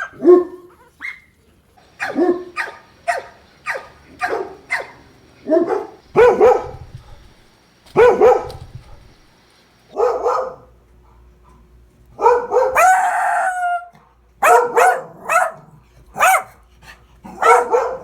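Dogs barking in a string of short clips: single barks and quick runs of three to five barks, from different dogs. Past the middle comes one longer, rougher call of about two seconds.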